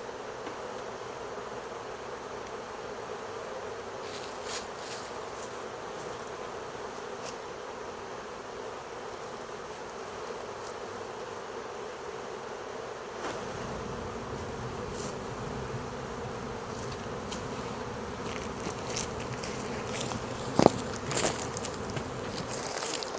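Dense, steady buzzing of a swarming honey bee colony. A few short knocks cut through it, the loudest about three-quarters of the way in.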